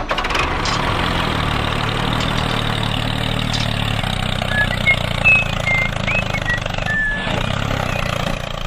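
Engine running steadily at an even idle, with a few short high chirps midway through.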